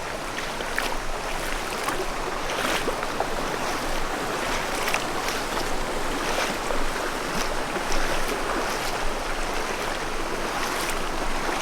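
Creek water rushing steadily over rocks at a shallow trail crossing.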